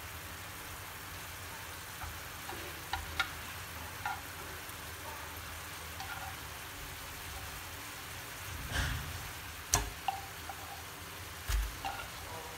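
Chicken wings simmering and sizzling in sauce in a pan: a steady hiss, with a few clicks and then louder knocks of chopsticks against the pans in the second half.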